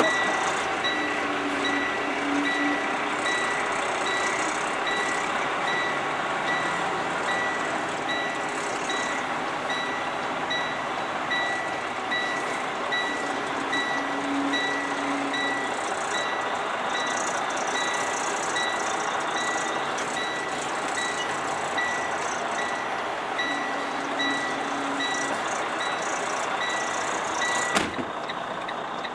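A semi-truck's backup alarm beeping steadily at about two beeps a second while the truck reverses, over the steady running of its diesel engine. Near the end a sharp click is heard, and the beeping stops.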